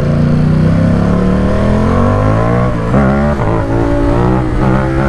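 Ducati Supersport 950 S's 937 cc Testastretta L-twin engine and exhaust under acceleration while riding. The pitch climbs steadily for over two seconds, breaks briefly about three seconds in, then rises and falls again.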